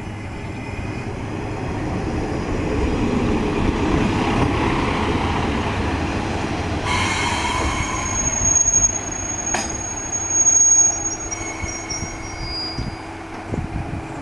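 Sanriku Railway diesel railcar pulling into a station: the rumble of the train builds as it approaches, then high-pitched squealing from the wheels and brakes sets in about halfway through as it slows, with a sharp clank a little later, before it eases to a stop.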